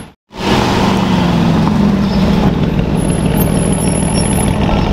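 Aston Martin Vantage's twin-turbo V8 running at low revs as the car pulls away, a steady low engine note that swells slightly about two seconds in and then settles.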